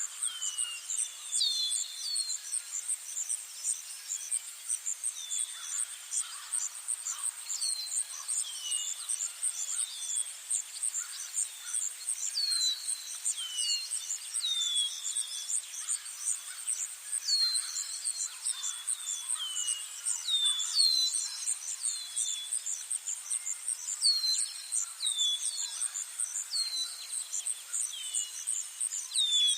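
A steady, high-pitched insect trill that pulses rapidly without a break, with birds calling over it in many short notes that slide downward in pitch.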